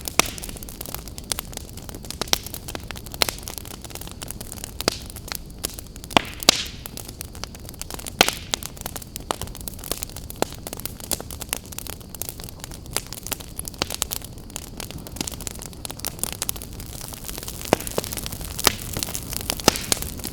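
Open wood fire crackling, with irregular sharp pops and snaps over a steady low rumble and hiss of the flames.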